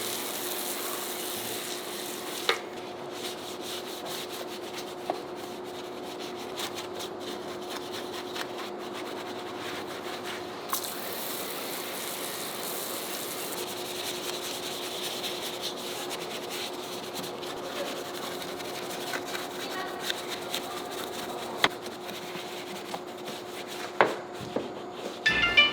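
Steady scrubbing against a surface over a faint steady hum, with a few sharp clicks scattered through it.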